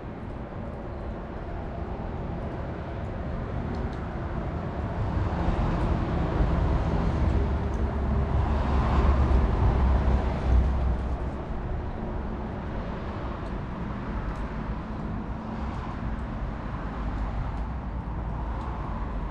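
A vehicle passing by, its noise swelling to a peak about halfway through and then fading away, over faint crackling from a campfire.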